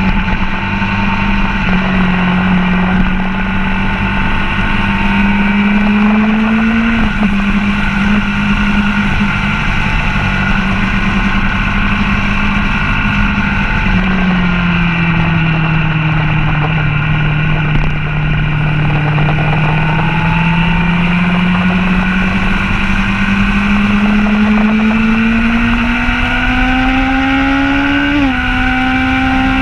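Motorcycle engine pulling hard on a racetrack, heard from on the bike with wind rush. The engine pitch climbs steadily and drops suddenly at upshifts, about a quarter of the way in and near the end.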